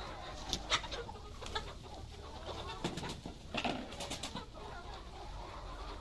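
BV380 laying-hybrid chickens clucking in a cage, with a scatter of short sharp taps and clicks among the clucks during the first few seconds.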